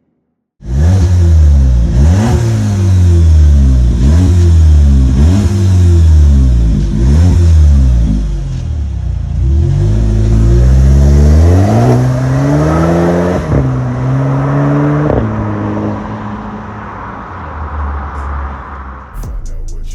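Skoda Octavia 2.0 engine through its reworked split exhaust with twin tips, revved repeatedly in quick blips about once a second, then brought up in one longer climb that drops off sharply, blipped once more, and left to run steadily as it fades.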